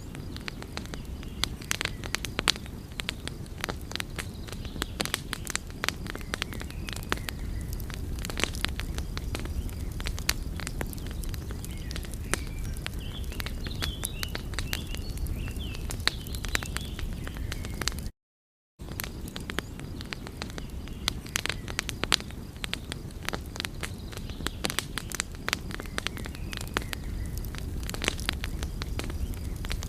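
Wood fire crackling and popping: many irregular sharp snaps over a steady low rumble of the burning. The sound cuts out completely for about half a second some 18 seconds in.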